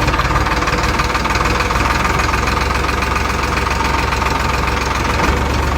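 Mini tractor engine running steadily with a fast, even knocking beat.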